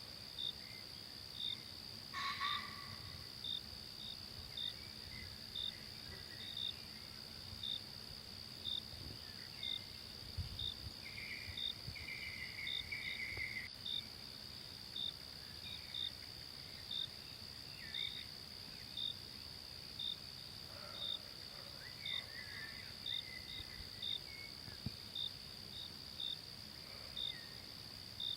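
Forest insect chorus: a steady high insect drone with a cricket-like chirp repeating about one and a half times a second, over faint low background noise. Brief bird calls come in a couple of times, around two seconds in and near the middle.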